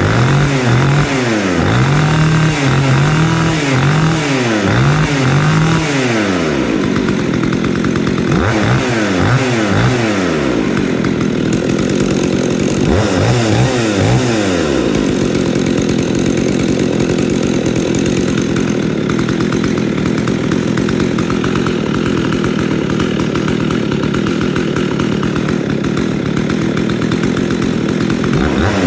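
Husqvarna 61 two-stroke chainsaw idling and revved in a series of short blips, then held at high revs for about a dozen seconds before dropping back near the end.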